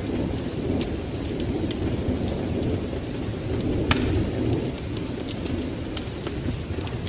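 Wood fire crackling in a fireplace, with scattered sharp pops over a steady low rumble. The loudest pop comes about four seconds in, and another about six seconds in.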